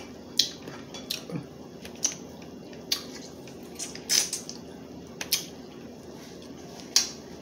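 Crab leg shells being cracked and snapped apart, a string of sharp, irregular cracks with some wet squishing of the meat between them.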